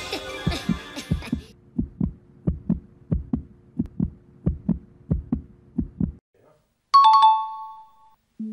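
Quiz-game sound effects: a steady run of short low thumps over a low hum while a loading bar fills, stopping at about six seconds. About a second later comes a bright two-note chime, the 'correct answer' signal as the check mark appears.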